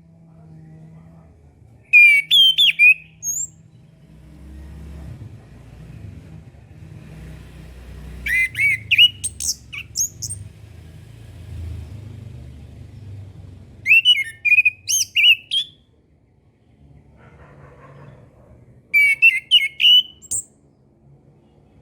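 Chestnut-capped thrush (anis kembang) singing: four short phrases of rapid, high whistled notes and trills, about five to six seconds apart. A low rumble runs underneath, strongest in the middle.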